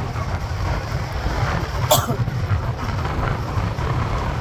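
Wind buffeting the microphone and road rumble while riding a mountain bike, with a single sharp click about two seconds in.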